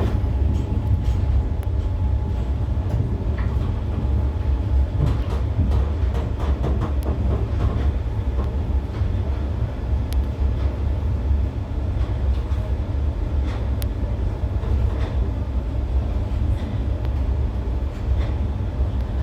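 Train hauled by steam locomotive A2 986 running along the track: a steady heavy low rumble with frequent irregular clicks and rattles from the wheels and rails.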